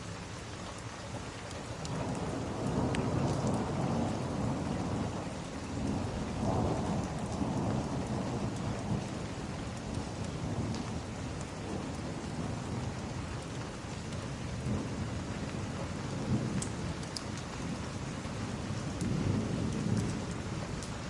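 Steady rain with low rolls of thunder, swelling about two seconds in, again around six seconds and near the end, with a few faint sharp ticks over it.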